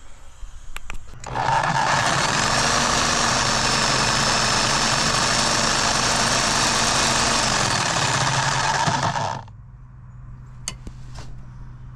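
Large impact wrench hammering steadily on a bent shock-absorber mounting bolt, with a faint motor whine; it starts about a second in and cuts off after about eight seconds.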